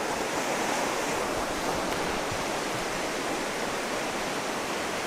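River water rushing steadily over rocks, an even unbroken hiss.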